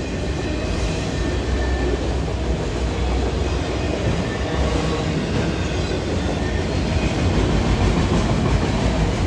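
CSX freight train's cars, including autoracks, rolling past: a loud, steady rumble of steel wheels on the rails.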